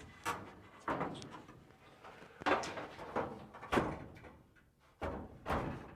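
A handful of irregular knocks and bangs on sheet-metal body panels as the roof and rear window section is pushed and braced into position.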